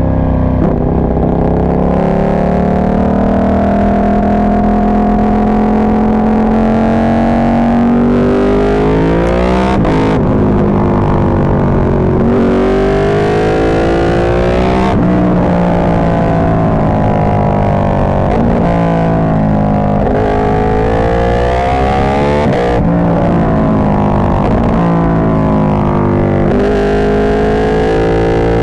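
Ducati 1299 Panigale's 1285 cc L-twin through an Austin Racing GP2 full exhaust, the revs climbing and dropping again and again as the bike accelerates and shifts gears. The exhaust is blowing out the microphone, so the sound is distorted.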